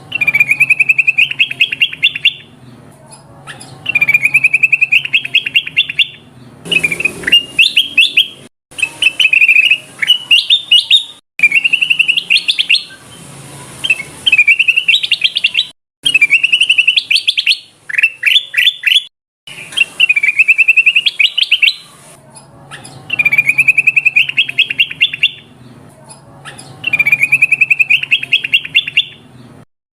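Kutilang emas (a bulbul) song played as a trapper's lure call: phrases of rapid, high chirping notes about two seconds long, repeating every few seconds. A low steady hum runs underneath.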